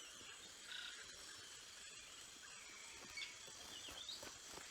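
Faint tropical forest ambience: a steady high hiss with a few short, high chirps and whistles from small animals.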